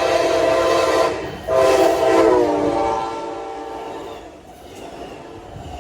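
Locomotive air horn sounding two long blasts, the first ending about a second in and the second dropping in pitch near its end as the train passes. The horn is followed by a fading rumble of the passing train.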